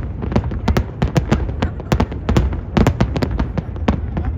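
Aerial fireworks display: a rapid, irregular barrage of sharp bangs and pops, several a second, over a steady low rumble.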